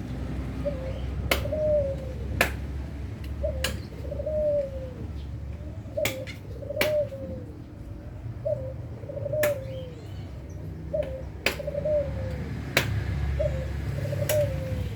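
A bird cooing over and over: short, low, arched coos about once a second. Sharp clicks or taps come in between at irregular intervals.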